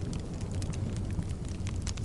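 Wood logs burning in a fireplace: a steady low rumble of the flames with scattered small crackles and pops of the wood, several of them sharp and close together near the end.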